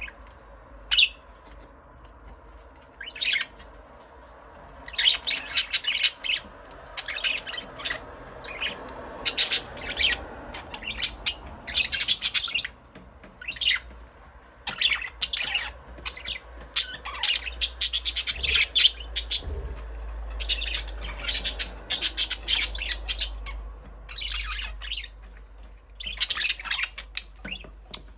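Budgerigars chirping in quick runs of short, high-pitched calls, with brief pauses between the runs.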